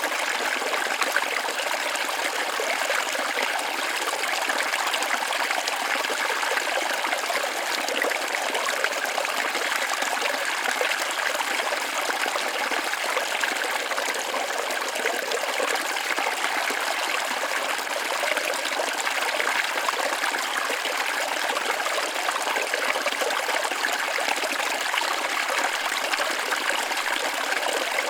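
Waterfall on a forest creek, water running and splashing steadily without a break.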